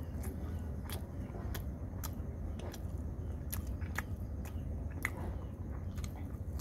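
A person chewing and biting a cooked chicken leg close to the microphone: irregular wet mouth clicks and smacks, about one or two a second, over a steady low rumble.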